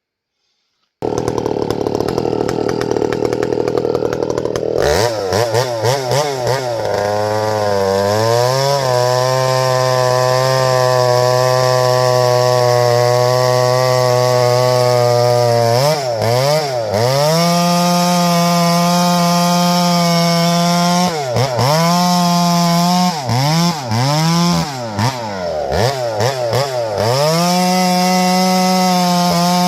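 Chainsaw running at high revs: its engine rises to a steady, high full-throttle pitch about five seconds in and holds it, dipping briefly several times before picking back up. The saw runs strong after a carburetor swap.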